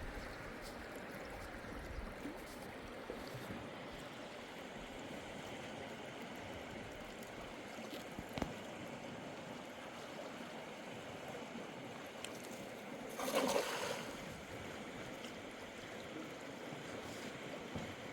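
River water flowing steadily. A single sharp knock about eight seconds in, and a brief louder rush of noise lasting about a second a little past two-thirds of the way through.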